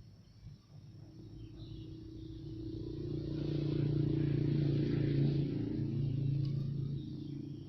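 A motor vehicle driving past: its engine and road noise swell up, peak about halfway through, then fade away.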